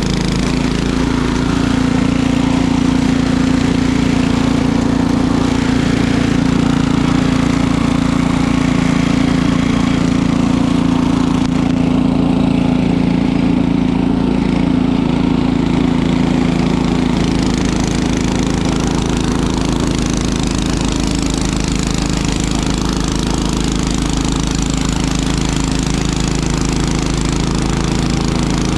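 Small gasoline engine running steadily, its tone changing slightly about seventeen seconds in.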